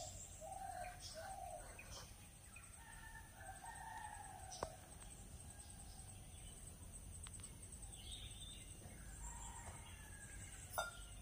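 Faint bird calls: a few short notes at the start, then a longer drawn-out call about three seconds in, over a steady high insect trill. Two sharp clicks sound, one about halfway and a louder one near the end.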